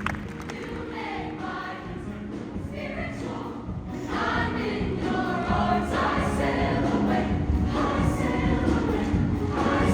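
Show choir singing in harmony with live band accompaniment, swelling louder about four seconds in.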